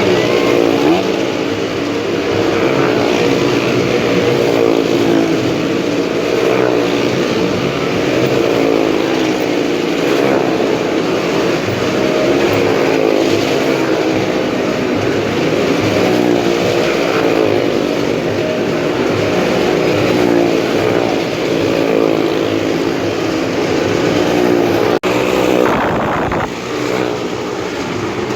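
Motorcycle and car engines running hard as they circle a motordrome wall, their pitch rising and falling over and over. The sound briefly drops out near the end.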